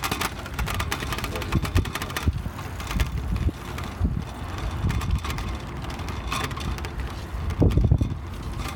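Wind buffeting the microphone on a moving bicycle, with low thumps and light rattling throughout the ride.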